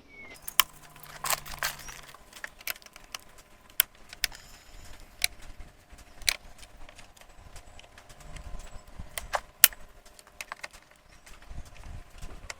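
A Phillips head screwdriver undoing the screws of an older Victa lawn mower's top cover: irregular sharp metal clicks and taps, with one louder click late on.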